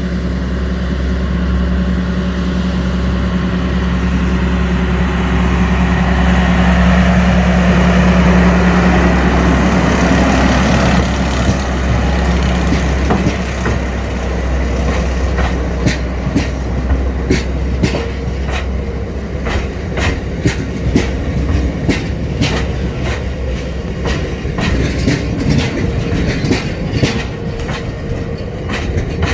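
Diesel-hauled freight train of bitumen tank wagons passing: the locomotive's engine drone builds and peaks about eight to ten seconds in. The wagons follow with a rhythmic clickety-clack of wheels over the rail joints.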